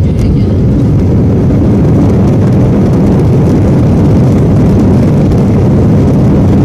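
Aeroplane landing: a loud, steady low rumble.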